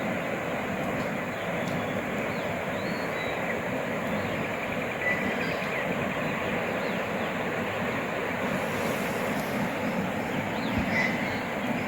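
Steady outdoor rushing noise, with faint short chirps and a brief trill over it.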